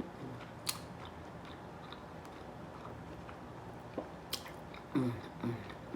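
Close-miked chewing of crab meat, wet and smacking, with two sharp mouth clicks. Near the end, short pleased "mm" hums between bites.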